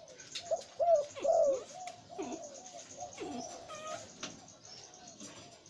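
Male dove cooing: a run of warbling, bending coos, loudest about a second in, then softer coos through the rest.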